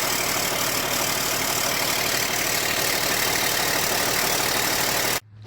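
LMTV military truck's diesel engine idling steadily, with an even rapid pulse, until it cuts off abruptly near the end.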